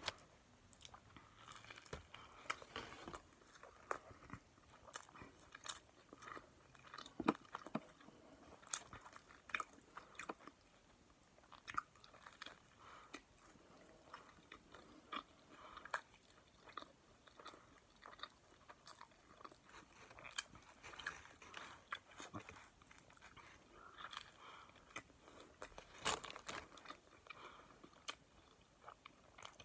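A person biting into and chewing a Subway sub sandwich: faint, irregular chewing clicks and soft crunches of the bread.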